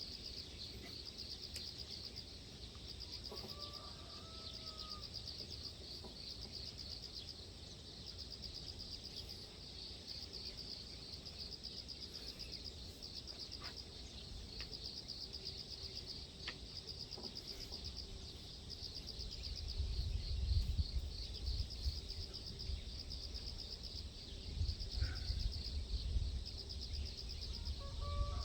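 Insects chirring steadily in a fast, even pulse, with a short whistled bird call twice. Low wind rumble on the microphone comes in about two-thirds of the way through.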